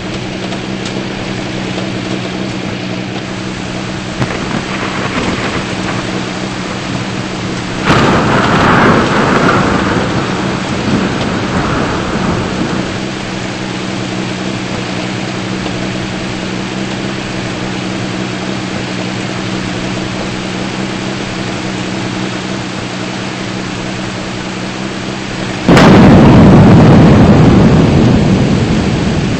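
Two thunderclaps, one about eight seconds in and a louder one near the end, each breaking suddenly and rumbling away over a few seconds. Steady rain and a low steady hum run underneath.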